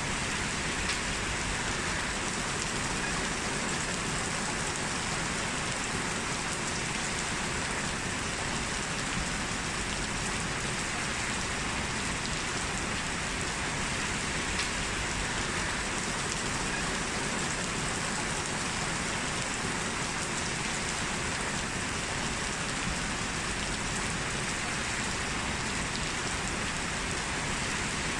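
Heavy rain falling steadily on a street, a constant even hiss with no thunder.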